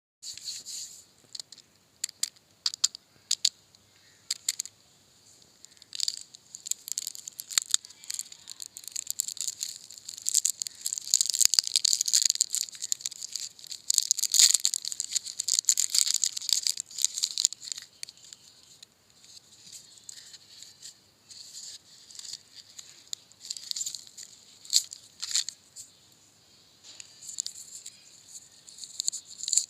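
Plastic packaging crinkling and rustling as it is handled, in irregular bursts of small crackling clicks with short pauses between.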